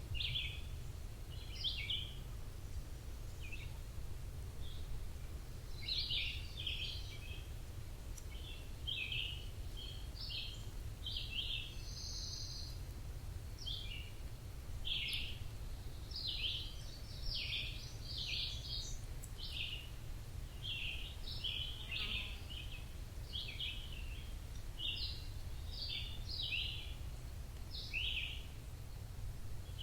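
Birds chirping: short, quick chirps repeating every second or so, over a steady low rumble.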